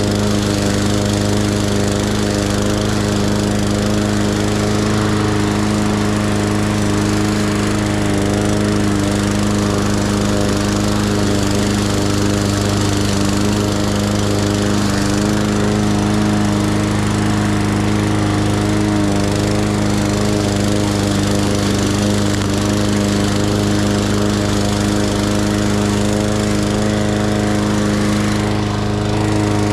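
Lawn mower engine running steadily at an even speed, with a constant hum and a hiss over it.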